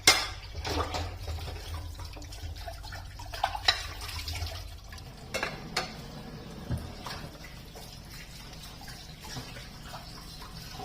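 Dishes and utensils clinking and knocking now and then during kitchen work, the loudest knock at the very start, with water sounds and a low hum that fades about halfway through.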